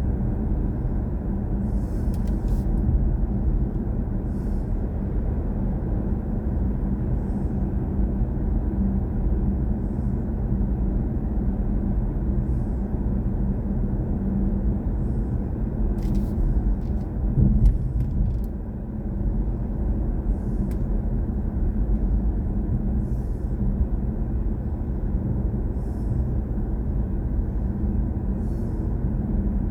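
Steady low road and tyre rumble of a BMW i4 M50 electric car on the move, with a brief louder swell about two-thirds of the way through.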